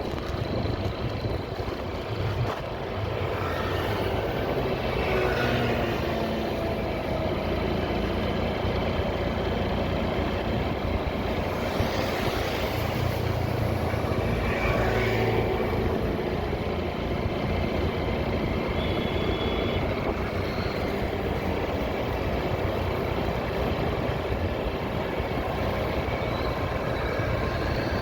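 Motorcycle riding on the road: steady engine and road noise, the engine note rising and falling a few times as the bike changes speed.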